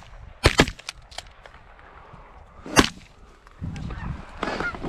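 Shotgun volley from a waterfowl blind: two shots in quick succession about half a second in, a fainter one, then a single loud shot near three seconds. Near the end a low rumble comes in, with a few short honking calls.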